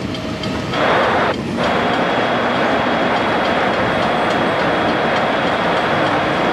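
Freight train cars rolling past: a steady rumble of wheels on rail, loudest about a second in, with a faint steady high whine over it.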